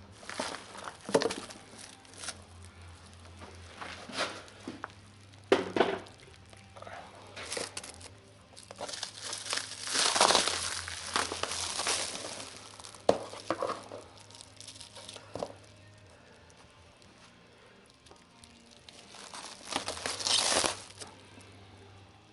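Packaging crinkling and tearing in irregular bursts as the parts of a new clutch kit are unwrapped and handled. The loudest stretch comes about halfway through, with another near the end, over a faint steady hum.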